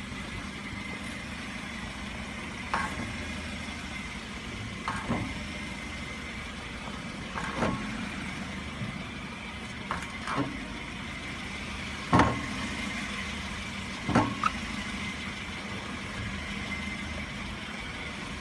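Small car idling steadily, with a short sharp clunk about every two seconds, six in all, each sliding down in pitch. This is the abnormal noise the owner attributes to the front disc brakes.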